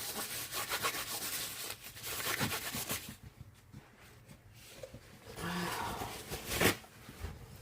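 Hands being rubbed and scrubbed clean of resin: quick rubbing strokes for about three seconds, then softer rustling and one sharp knock near the end.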